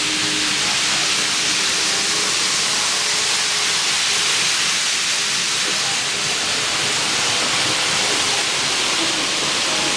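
Train running past, heard as a steady, even rushing hiss without a clear rise or fade.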